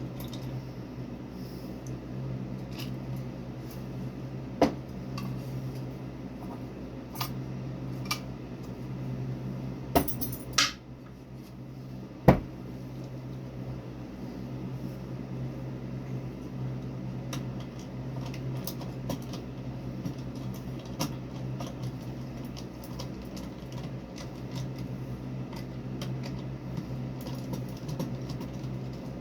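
Scattered clicks and clinks of small metal hardware and tools being handled, the sharpest few in the first half, over a steady low hum.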